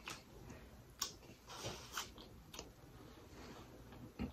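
Close-up chewing of a mouthful of boiled corn on the cob: faint, with a few sharp, wet mouth clicks and smacks spaced about a second apart.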